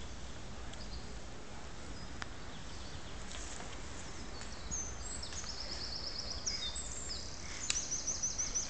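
Woodland background with a low steady rumble, and a songbird singing runs of high, rapidly repeated notes through the second half. One sharp click comes near the end.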